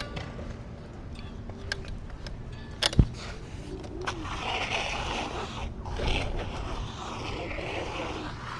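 Rental electric scooter rolling over rough pavement, its small hard wheels rattling and scraping, with one sharp clack about three seconds in as it hits or drops over an obstacle.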